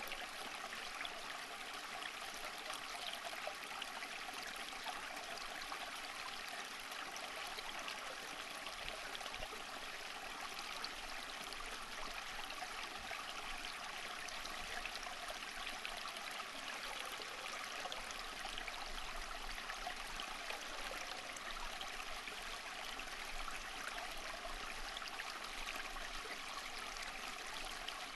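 A stream of water running and trickling steadily, a bright, even babbling with fine splashing detail.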